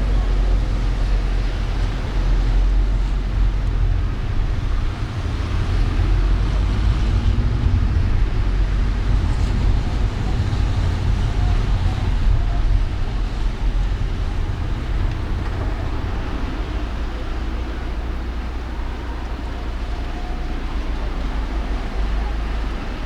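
Steady low rumble and even hiss of a car driving through city traffic, easing slightly in the second half.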